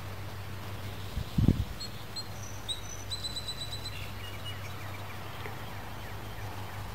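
Songbirds chirping: a few short high notes, then a quick run of repeated high notes, then some lower falling notes. A steady low hum runs underneath, and there is one dull thump about a second and a half in.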